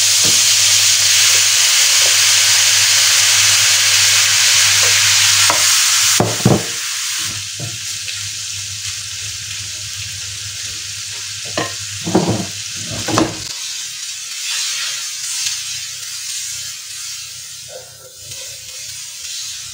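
Shrimps sizzling loudly as they go into hot butter and olive oil in a frying pan and are stirred with a wooden spoon. About six seconds in the sizzle falls to a softer frying hiss, broken by a few knocks against the pan.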